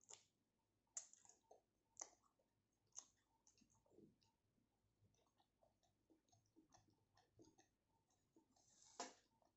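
Quiet close-up eating sounds: sharp wet mouth clicks about once a second for the first few seconds, then softer scattered lip smacks and chewing clicks, and a short louder hiss ending in a click near the end.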